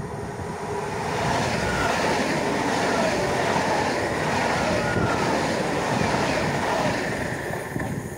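ČD class 680 Pendolino electric tilting train passing at speed: a rush of wheels on rail and air that builds about a second in, holds as the train goes by, and eases off near the end.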